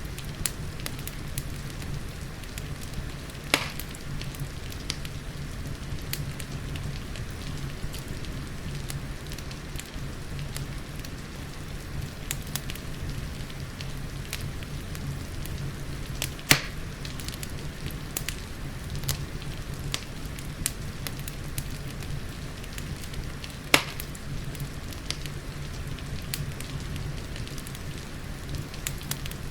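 Wood fire crackling with many small snaps and three sharper, louder pops, over a steady low rumble and the even hiss of falling rain.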